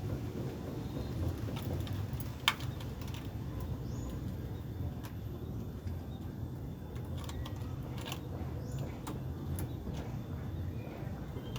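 Domestic pigeons cooing in low, rolling pulses, with a few short high bird chirps and scattered light clicks, one sharper click about two and a half seconds in.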